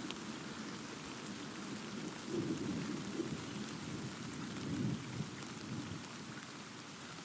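Thunderstorm: steady rain pattering with a low rumble of thunder that swells about two seconds in and fades after about five seconds.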